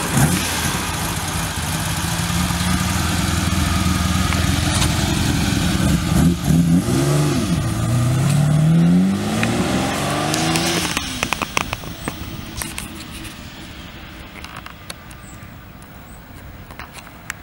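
Ferrari 250 GT's V12 pulling away under acceleration, its pitch rising through two gears about halfway through. It then fades into the distance, with a scatter of crackles as it lifts off.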